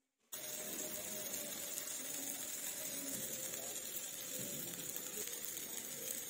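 Food sizzling in a miniature frying pan, a steady hiss that cuts in suddenly about a third of a second in.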